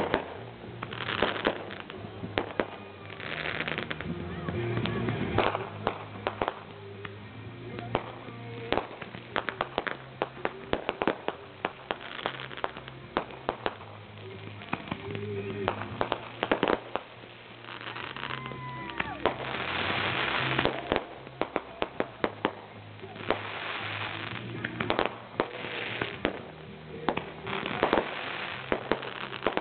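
Fireworks going off: many rapid firecracker pops and crackles, several hissing bursts about a second long, and a falling whistle about two-thirds of the way through.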